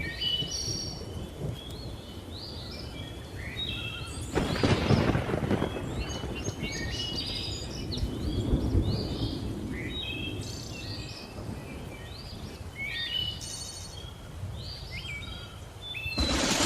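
Low thunder rumbling under a chorus of many birds chirping and calling. A louder surge of thunder or rain noise comes about four seconds in and another near the end.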